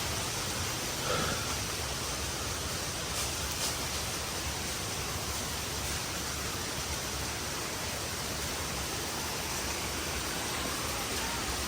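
Waterfall rushing steadily, an even wash of falling-water noise.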